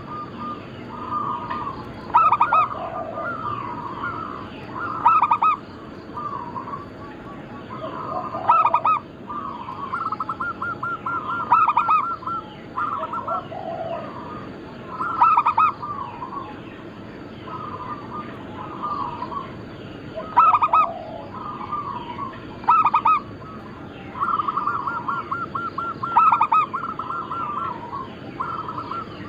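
Zebra doves (perkutut) cooing in repeated phrases. Each phrase is a rolling run of soft notes, broken every two to three seconds by a louder accented coo.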